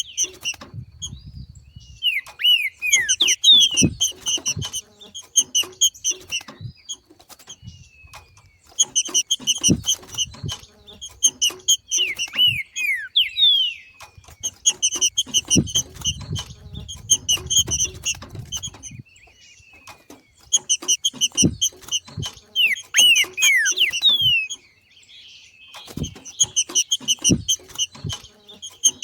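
Trinca-ferro (green-winged saltator) giving its rapid, chattering 'macheado' call in five repeated bouts of a few seconds each, with short falling whistled notes mixed in. This is the call of a saltator coming into breeding condition, and it stirs other trinca-ferros to sing. Scattered low thumps sound between the calls.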